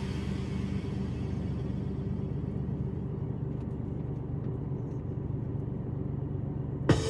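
Steady low rumble of a truck driving on a motorway: engine and road noise. Music fades out at the start and cuts back in sharply near the end.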